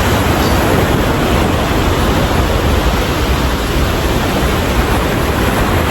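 Ocean surf and wind making a loud, steady, even noise with a deep rumble.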